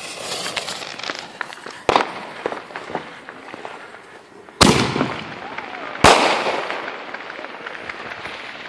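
Consumer firework mortar shells going off: three sharp bangs, one about two seconds in and two louder ones around four and a half and six seconds in, each trailing away, with crackling hiss in between.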